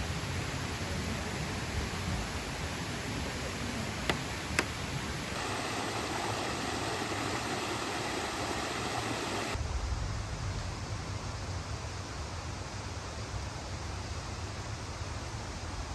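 A steady rushing noise like running water, with two sharp clicks about four seconds in. The noise changes character abruptly twice.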